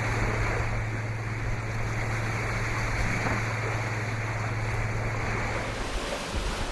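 Water rushing past a sailing catamaran's hulls with wind noise, under a steady low hum that stops near the end.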